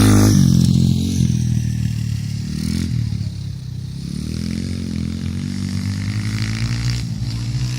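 Pit bike engines racing round the track, loudest as the bikes pass at the start and then fading. Their engine notes drop and climb again about halfway through as the riders ease off and accelerate.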